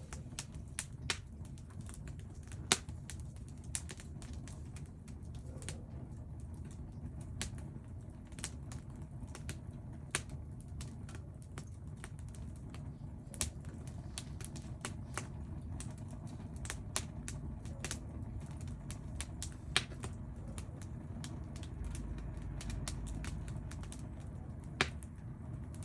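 Firewood burning, with irregular sharp crackles and pops over a low, steady rumble; a handful of pops stand out louder than the rest.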